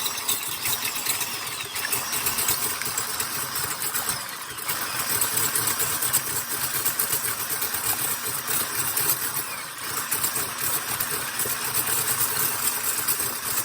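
Electric hand mixer running steadily, its beaters whipping chilled egg whites in a bowl.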